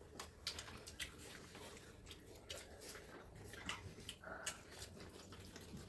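Faint, scattered clicks and smacks of people eating and chewing.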